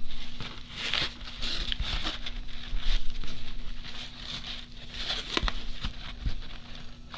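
Hands handling a handmade journal: irregular paper rustling and light taps, with one sharp click about five seconds in, over a faint steady hum.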